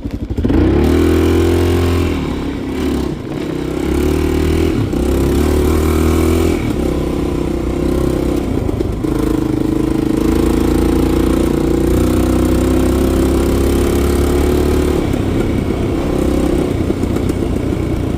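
Yamaha XT350 single-cylinder four-stroke engine pulling away and accelerating up through the gears. The pitch rises and drops back at each shift over the first several seconds, then settles into a steady run at cruising speed.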